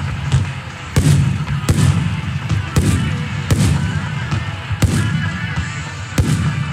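Aerial firework shells bursting in quick succession: six heavy booms about a second apart, each followed by a low rumbling echo, with crackling from the bursting stars in between.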